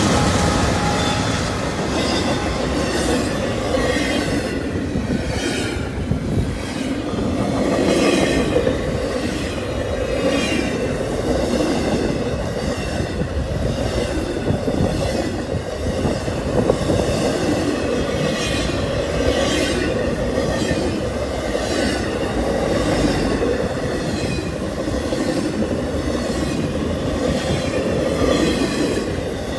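Freight train rolling past at speed: a steady rumble of cars with regular clacks as the wheels cross rail joints.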